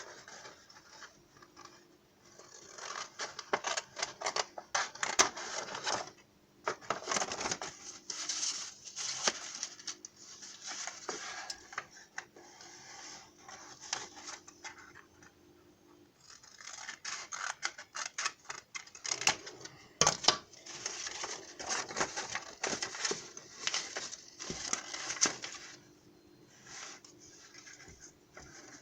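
Paper being handled and cut by hand: rustling, scraping and snipping in irregular bursts with short pauses between.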